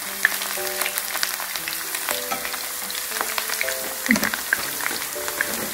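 Shrimp and garlic sizzling in olive oil for gambas al ajillo, a steady frying hiss with many small crackling pops. Soft background music plays a simple melody underneath.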